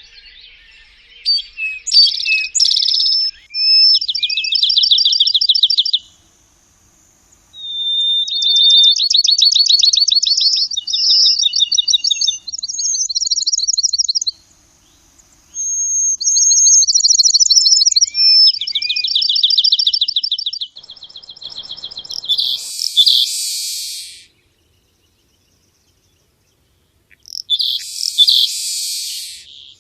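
Bird song: phrases of rapid, high-pitched trills and chirps separated by short pauses, then two harsh, raspy calls, the second near the end.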